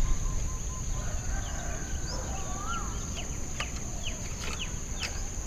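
Birds calling outdoors: short sharp chirps and a single rising-then-falling call, over a steady high-pitched whine.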